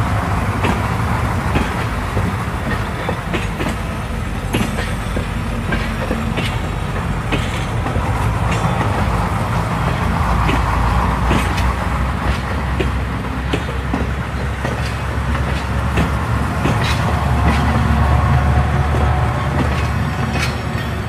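Container freight wagons rolling past close by: a steady heavy rumble of steel wheels on rail, with frequent clicks and knocks as the wheels run over rail joints.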